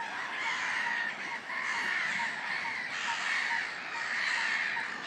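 Birds calling continuously, a steady wavering chatter with short repeated notes.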